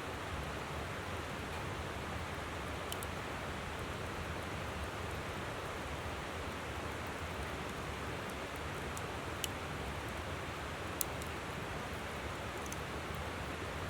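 River water flowing in a steady rush, with a few sharp, isolated pops of a wood campfire crackling over it, the loudest about two thirds of the way in.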